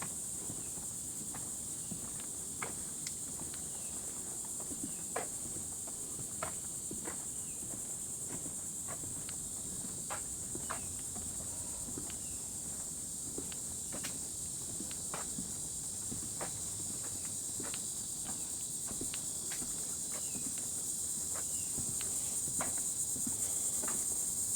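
Steady high-pitched drone of insects, with footsteps on a trail about once a second.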